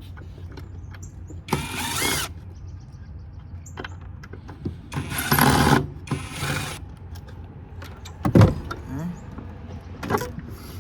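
Cordless drill-driver running in three short bursts, backing screws out of a metal power-supply case, with a whine that changes pitch as the motor loads and unloads. A sharp heavy knock about eight seconds in, with a low hum underneath throughout.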